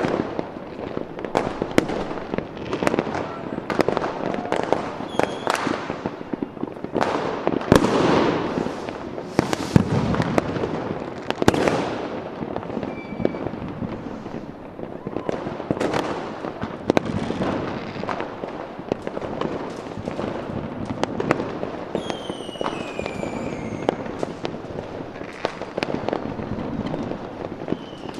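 Fireworks display: a continuous barrage of bangs and crackling, with a few whistles falling in pitch about a third of the way in and again near the end.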